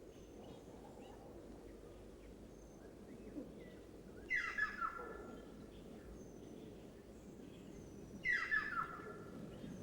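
A bird calling twice, about four seconds apart, each call a quick run of falling notes, over a faint steady background hiss.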